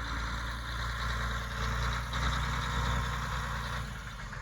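An engine idling steadily, its low hum easing off a little near the end.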